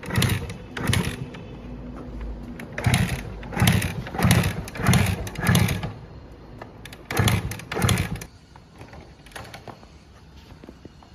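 Suzuki motorcycle engine revved in quick throttle blips, about nine short rises in three groups, each blip falling back between. It settles to a quieter idle for the last few seconds.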